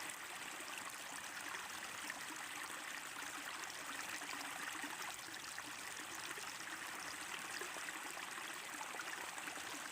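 Steady trickling, stream-like water noise, even and unbroken.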